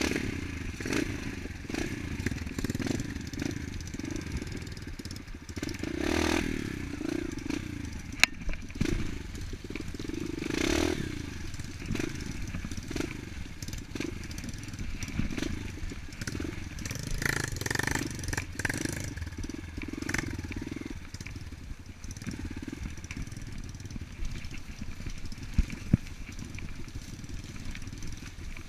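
Off-road dirt bike engine running as it rides, swelling in a few bursts of throttle, with scattered sharp knocks and clatter.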